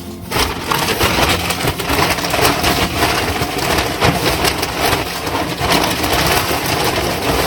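Wood shavings being tossed and spread across a chicken coop floor: a loud, dense crackling rustle.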